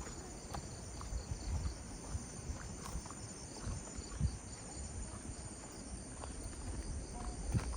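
Steady high-pitched chorus of insects, crickets or cicadas, in tropical evening vegetation. Under it runs a low rumble with scattered soft thumps of footsteps on the path.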